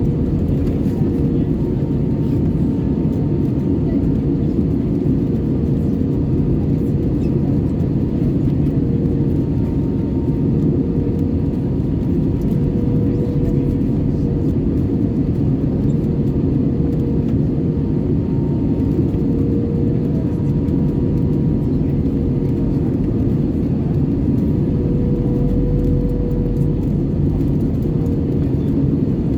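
Steady cabin noise of an Airbus A320-214 in flight: a dense low rush of airflow and CFM56 engine noise, with a thin steady hum on top that swells and fades slightly.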